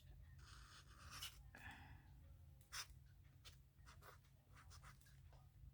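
Faint scratching of a pen on paper as letters are hand-written, in short strokes with small ticks where the tip lifts and sets down.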